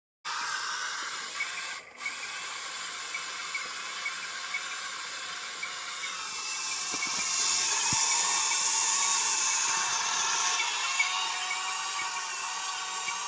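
Electric motors of a remote-control mini excavator whining steadily. The whine grows louder and hissier for a few seconds in the middle as the machine strains at grass it can barely dig.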